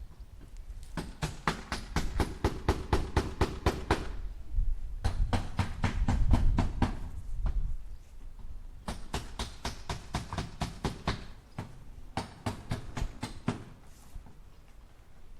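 A hammer driving nails into wood in four quick runs of strikes, about four or five blows a second, with short pauses between the runs.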